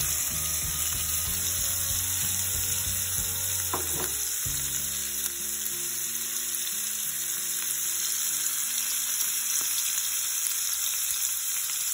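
Hilsa fish steaks sizzling steadily as they fry in hot oil in a pan, with chopped onion and green chilli just added to the oil.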